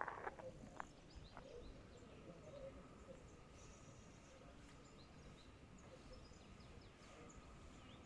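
Near silence outdoors: faint scattered bird chirps, with a few soft clicks in the first second.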